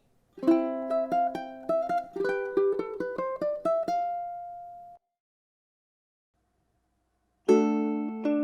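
Ukulele picked note by note, about four notes a second, for some three and a half seconds, the last note ringing out. After a pause of about two and a half seconds, a full chord is struck on all four strings near the end.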